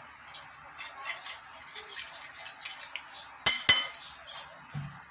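Metal utensils clinking and tapping against dishes and bowls during kitchen prep, a string of light clinks with two sharp louder strikes about three and a half seconds in.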